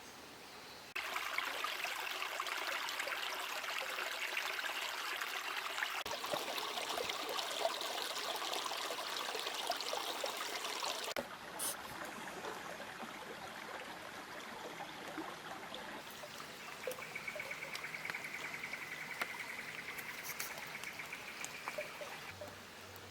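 Small rainforest creek flowing and trickling over rocks. It is louder in the first half and softer after an abrupt change about eleven seconds in. A steady high-pitched buzz sounds for several seconds near the end.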